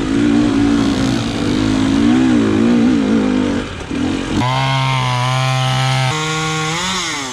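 Dirt bike engine running under way, its pitch wavering as the throttle changes. About halfway through it settles into a steady, stronger note, steps up shortly after and climbs again near the end.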